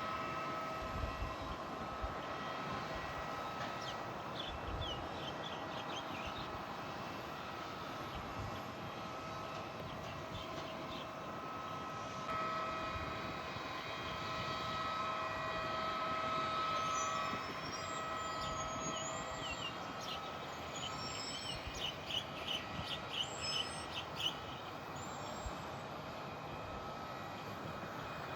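Aircraft engines running with a steady whine over a broad rushing noise. Short high chirps come through in the second half.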